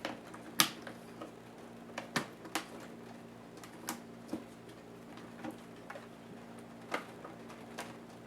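Irregular sharp clicks and taps of small plastic and metal parts of a Lenovo IdeaPad S10-3T netbook being handled and worked with hand tools during disassembly, the loudest about half a second in. A steady low hum runs underneath.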